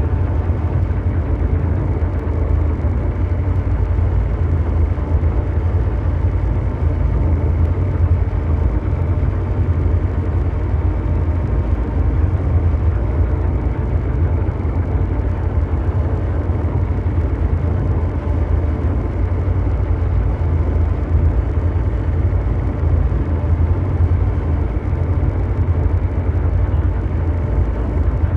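Steady mechanical drone in the manner of brown noise: a deep, constant rumble like a huge engine running, with a haze of noise above it and a few faint steady hum tones, never changing.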